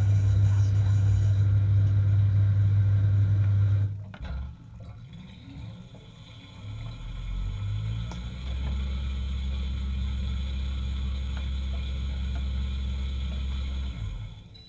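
Dishwasher pump running with a steady hum, cutting out about four seconds in; after a few quieter seconds a lower-pitched pump hum starts and runs until just before the end.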